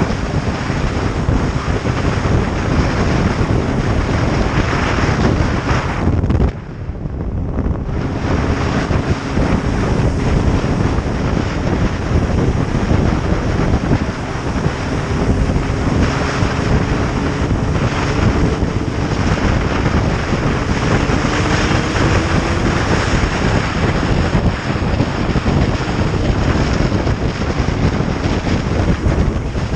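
Heavy wind rush on the microphone of a riding motorcycle, with the engine faintly audible underneath. The engine note climbs slowly in pitch through the middle as the bike accelerates, and the wind briefly dies down about six seconds in.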